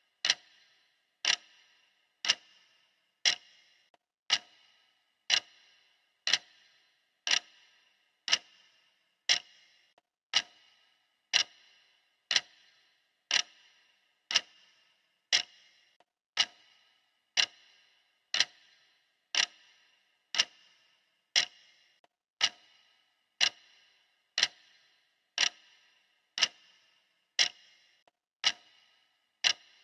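Clock ticking steadily, one sharp tick about every second, each with a brief ring after it.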